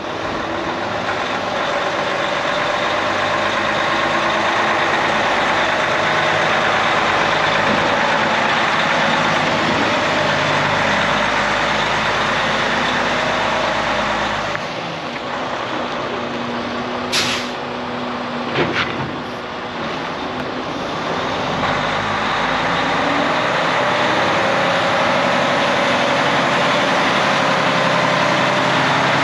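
Freightliner Cascadia day cab's Detroit diesel engine running steadily and loud. Its level drops somewhat through the middle, with a couple of short sharp hisses of air around the midpoint.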